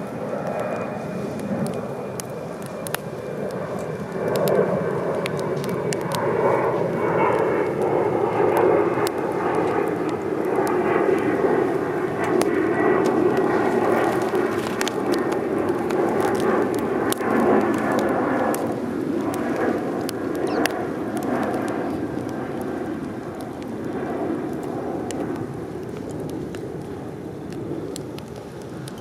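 A distant engine drone that swells over several seconds and then fades, its pitch slowly falling, with sharp crackles scattered throughout.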